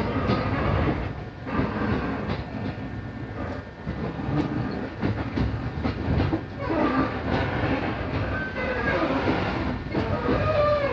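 Passenger train running, heard from inside the carriage: a steady rumble of wheels on the rails. Some high whining tones come and go in the second half.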